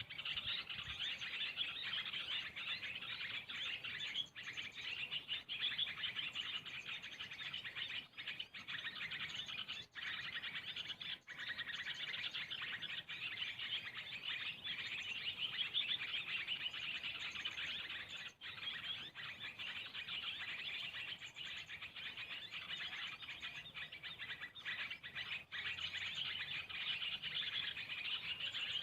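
Dense, continuous chirping of small birds, many overlapping calls with no break.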